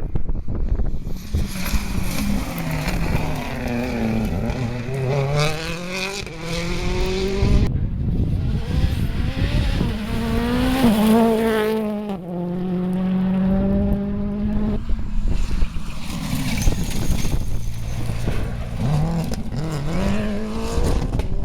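Rally car engines revving hard and changing gear, the pitch climbing and dropping with each shift as the cars pass. The sound changes abruptly a few times as one car's pass gives way to the next.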